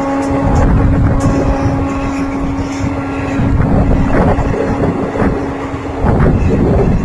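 Express-train passenger coaches passing close by at speed, wheels running over the rails with scattered clicks. A steady hum with overtones continues under it and cuts off about six seconds in.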